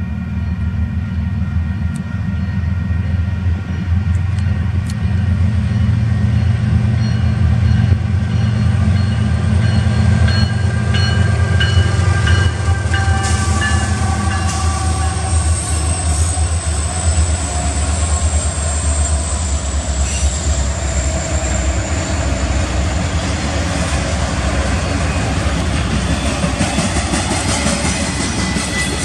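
Union Pacific freight locomotives (a GE ES44AC-H leading EMD SD70Ms and an SD70ACe) passing with their diesel engines running heavy, with a horn chord whose pitch falls as the units go by, followed by the train's cars rolling past on the rails.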